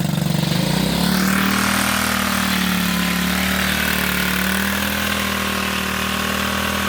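Motorcycle engine running at a steady speed, picking up slightly about a second in and then holding an even note.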